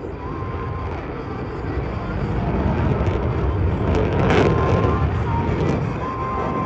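F-22 Raptor's twin turbofan jet engines running hard in a pass, the jet noise building to a peak about four seconds in and then easing.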